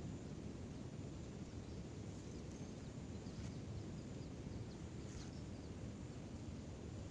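Quiet outdoor ambience at a pond: a steady low rumble with a few faint, short high chirps.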